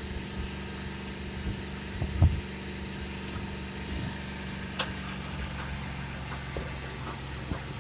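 Chevy Silverado engine idling steadily as the donor vehicle for a jump start, with a few light clicks and one sharp click about five seconds in, followed by a faint high whine.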